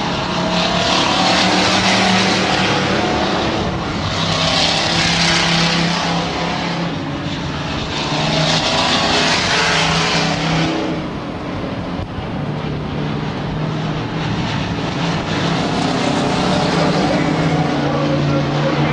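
Several stock trucks racing on a dirt oval, their engines running hard and swelling louder in waves as the trucks pass, about every few seconds.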